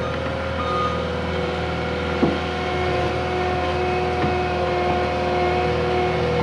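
Cat 259D compact track loader's diesel engine running steadily while it works the ground, with its backup alarm sounding briefly near the start. A couple of clanks come about two and four seconds in.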